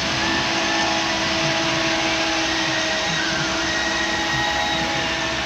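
Heavy quarry machinery running steadily: an even, loud mechanical noise with a constant hum through it.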